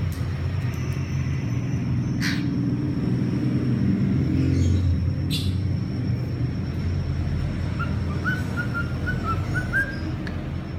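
A steady low background rumble with two sharp chirps. Near the end comes a quick run of soft, short rising whistled notes from a cockatiel.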